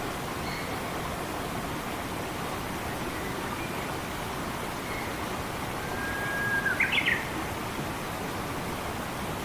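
Steady rush of running water, with a few faint bird chirps. About six seconds in, a bird gives a held whistle that breaks into a few quick rising notes, the loudest sound here.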